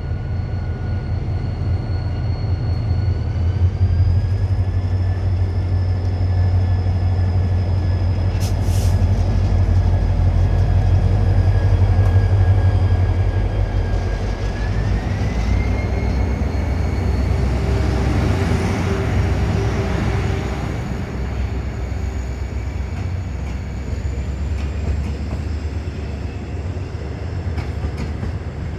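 Train pulling away, a low rumble under a whine whose pitch rises in steps as it gathers speed.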